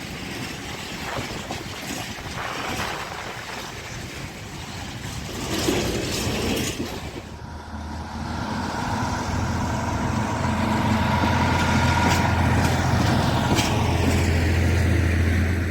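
Freight train passing: wheels clicking and clattering over the rails amid noise, then from about eight seconds in a locomotive's steady low drone that grows louder.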